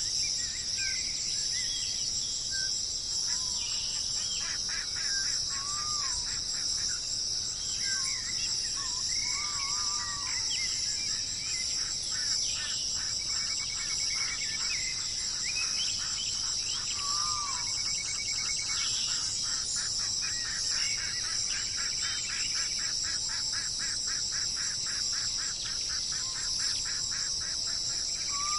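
Several wild birds calling over a steady high-pitched insect drone: short whistled notes that rise and fall, and long runs of fast repeated pulsing calls.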